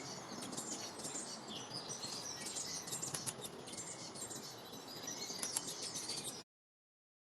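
Small birds chirping, many short high calls overlapping over steady outdoor background noise; the sound cuts off abruptly about six seconds in.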